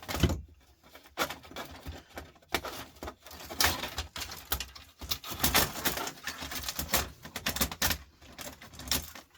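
Screws being worked out of a CD changer's metal chassis with a screwdriver: irregular clicks, scrapes and rattles of metal parts.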